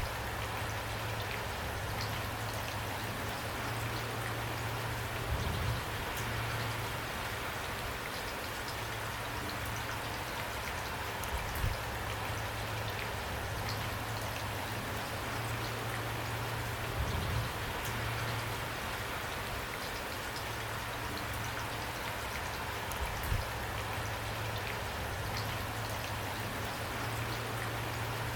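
Steady rain falling and pattering on a surface, a constant even hiss of drops. Brief louder low thuds come about every six seconds, four times in all.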